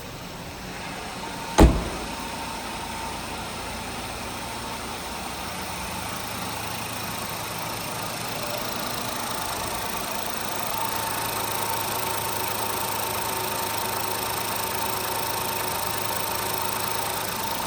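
A sharp thump about a second and a half in, then a 2018 Ford Focus's 1.0-litre EcoBoost three-cylinder engine idling steadily, with a faint whine that grows clearer later on.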